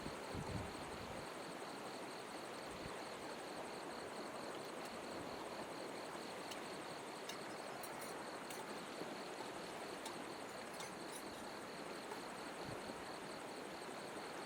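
Steady rush of flowing river water, with insects calling in an even, pulsing trill over it.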